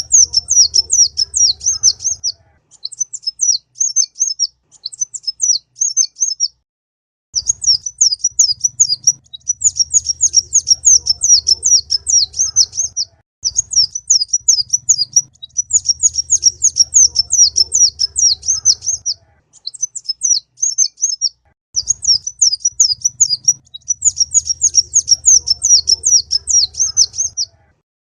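A kolibri ninja sunbird singing a song-tutoring recording: strings of rapid, high, thin twittering chirps in bursts of a few seconds, broken by short pauses and repeating over and over. A faint low hum sounds under each burst.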